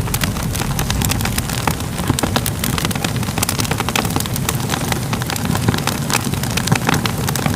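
Crackling fire: a steady low rumble of burning with frequent sharp, irregular pops and crackles.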